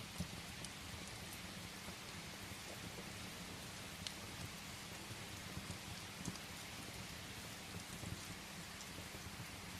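Steady rain with scattered sharp crackles from burning firewood in a fireplace.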